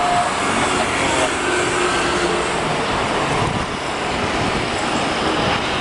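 Airbus A350-900's Rolls-Royce Trent XWB turbofans at take-off thrust: a loud, steady jet engine noise.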